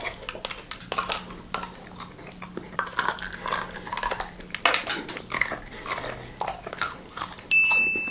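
Close-miked eating sounds: cutlery clinking and scraping, with short wet mouth smacks and chewing.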